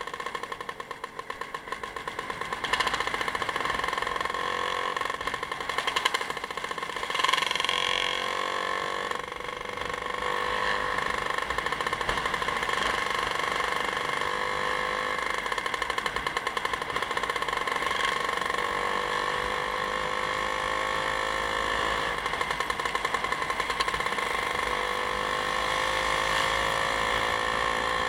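Vehicle engine running on the move, its pitch rising in slow sweeps several times as it pulls through the gears, with a few short knocks in the first quarter.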